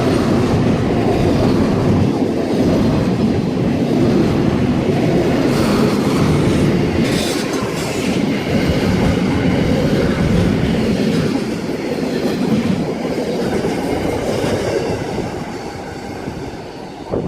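Freight train passing, wagons rumbling and wheels clicking over the rail joints, growing quieter over the last few seconds.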